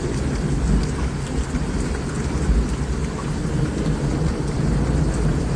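Heavy rain falling in a thunderstorm: a steady hiss of rain with a continuous low rumble underneath.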